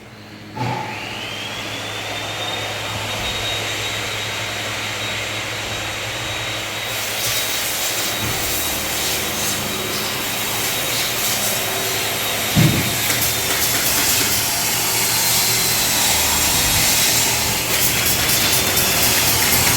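An electric power tool's motor starts and spins up to a high, steady whine. It keeps running with a harsh cutting-like hiss, and its pitch sags and recovers several times under load near the end. A single thump comes about two-thirds through.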